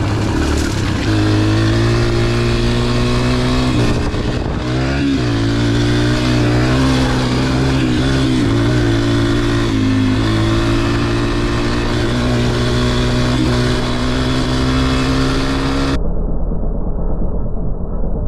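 Small dirt bike engine running as it is ridden along a trail. Its pitch dips and climbs again about four seconds in and again around nine to ten seconds in as the throttle changes. The last couple of seconds sound muffled.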